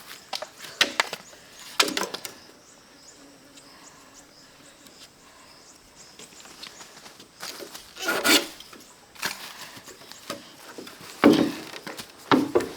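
Wood cracking, knocking and splintering in irregular bursts. There is a cluster of sharp cracks in the first two seconds, then a quiet stretch, then three louder crackling scrapes in the second half.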